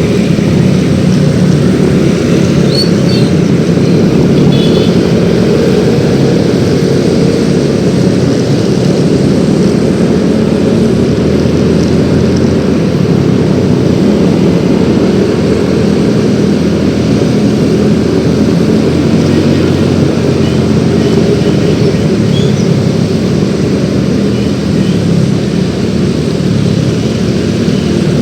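Yamaha X-Ride 113cc single-cylinder automatic scooter running steadily while being ridden, mixed with road and wind noise.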